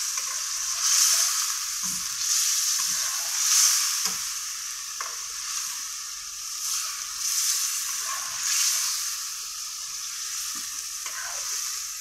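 Chicken frying in oil in an iron karahi, sizzling steadily while a metal ladle gently stirs the pieces. The sizzle swells and fades every second or so as the pieces are turned, with a few light knocks of the ladle against the pan.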